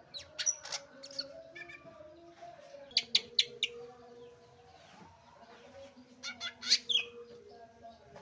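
Green leafbird (cucak ijo) singing: three loud clusters of sharp chirps and quick whistled notes, near the start, about three seconds in, and again about six to seven seconds in.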